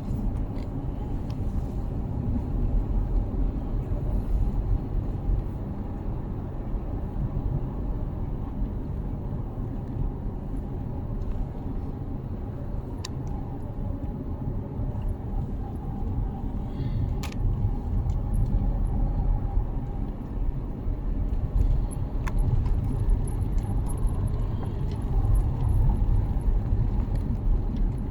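Car driving, heard from inside the cabin: a steady low rumble of engine and road noise, with a few light clicks and rattles.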